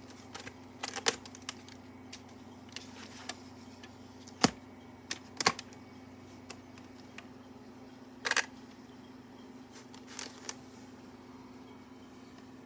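Scattered plastic clicks and knocks from a VHS cassette being handled, over a steady low hum.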